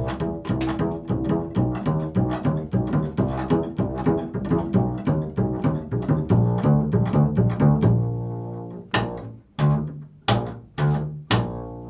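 An improvised solo on a plucked string instrument: a quick run of notes, about five a second, then a handful of single notes spaced out and left to ring near the end.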